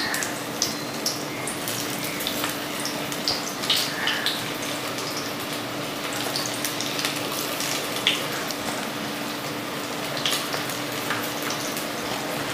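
Onion pakoras in gram-flour batter deep-frying in hot oil in a wok: a steady sizzle with scattered small pops and crackles.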